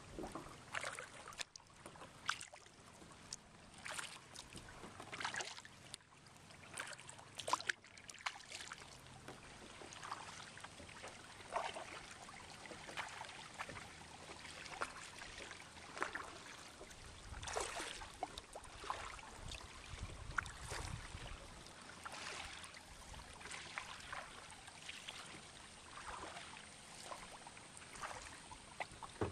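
Kayak paddling: the paddle blades dip and splash in the water at irregular intervals, with water trickling and dripping off them, fairly faint.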